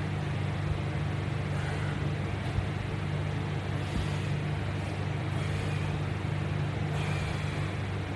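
Steady low hum with an even background hiss, plus a couple of faint short knocks.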